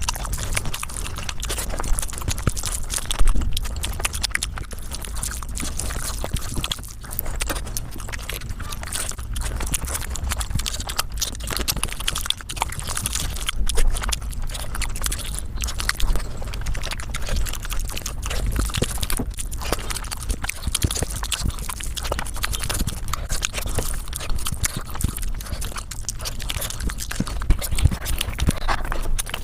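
Close-miked eating sounds sped up about five times: chewing, smacking and mouth clicks run together into a rapid, continuous crackle.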